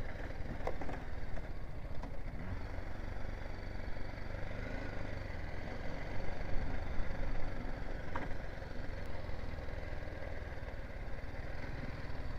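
BMW G 310 GS's single-cylinder engine running steadily, heard from the rider's camera, with a couple of faint clicks.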